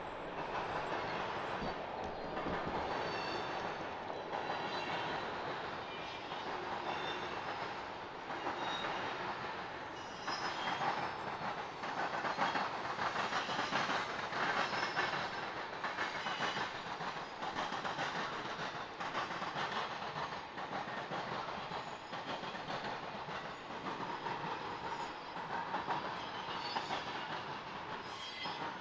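Freight train cars rolling over a railroad diamond crossing, their wheels pounding across the crossing frogs in a continuous run of clacks and bangs.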